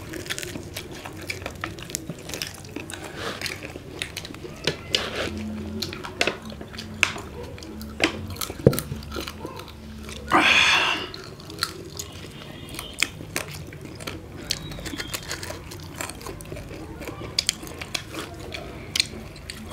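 People chewing and biting into roast chicken: a steady run of wet chewing and crunching clicks, with one brief, louder hiss about halfway through.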